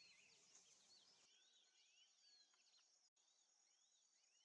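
Very faint forest bird chorus: many short chirps rising and falling in pitch, overlapping, with a steady high hiss that cuts off about a second in.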